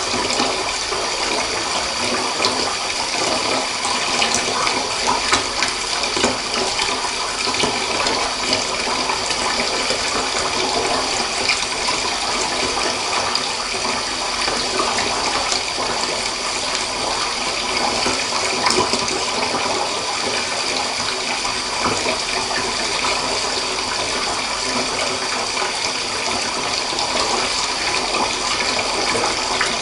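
Water running steadily from a tap into a bath, an even, unbroken rushing.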